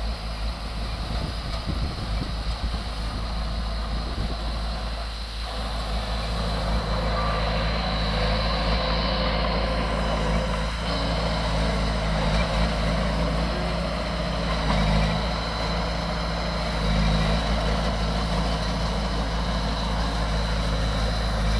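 Diesel engine of heavy earthmoving equipment running steadily, its engine and the working noise rising somewhat about six seconds in.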